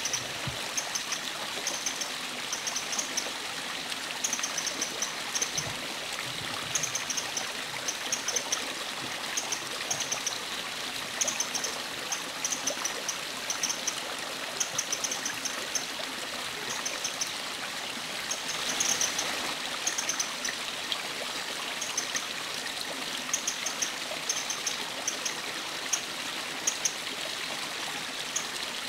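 Eurasian wren giving its dry call notes: short, high ticks in quick runs of a few, repeated about every second, over a steadily running stream.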